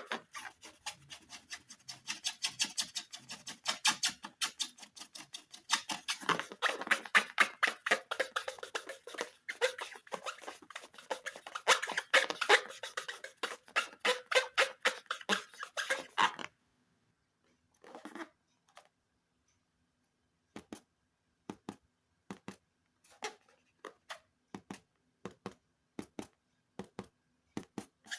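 Rapid sticky crackling and clicking from slime being squeezed and handled. It stops suddenly about 16 seconds in, leaving only scattered single clicks.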